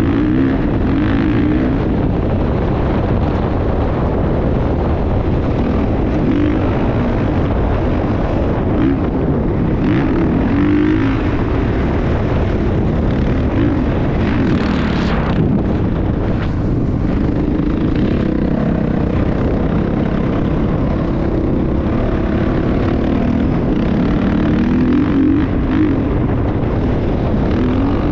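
Motocross dirt bike engine running while riding, its pitch repeatedly rising and falling as the throttle is worked.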